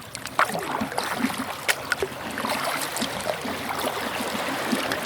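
Water splashing and trickling around a kayak as it is paddled, with a few sharp clicks in the first two seconds.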